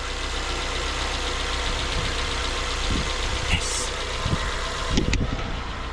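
MG ZS engine idling steadily, freshly restarted after being a non-starter and sounding really good, with a few short knocks in the second half.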